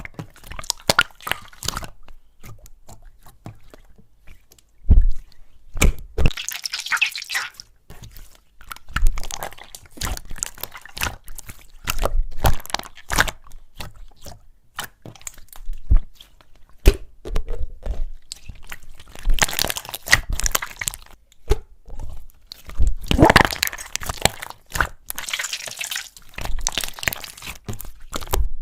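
Slime being pressed, poked and stretched by hand: a run of sticky clicks and small pops, with longer crackling squishes at several points.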